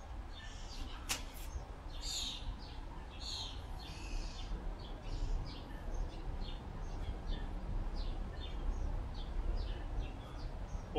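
Small birds chirping, short high calls repeated many times, over a steady low rumble, with one sharp click about a second in.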